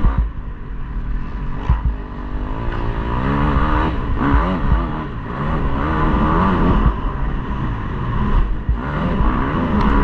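KTM 250 motocross bike engine revving hard as it is ridden round a track, its pitch climbing and falling again and again with the throttle and gear changes, with brief drops in level where the throttle is shut.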